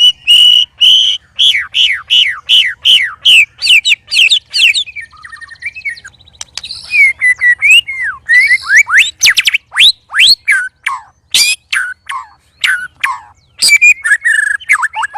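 White-rumped shamas (murai batu) singing loudly. A steady string of sharp down-slurred whistles, about three a second, gives way to varied looping phrases, then to a fast run of lower down-slurred notes near the end.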